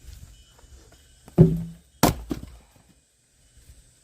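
Axe splitting firewood: a heavy thunk as the blade strikes the log, then a sharp crack about half a second later.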